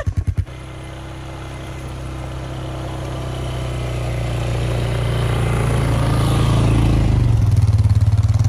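ATV engine pulling away and running steadily under load while towing a snow trail drag, growing louder over several seconds, with a change in pitch about seven seconds in.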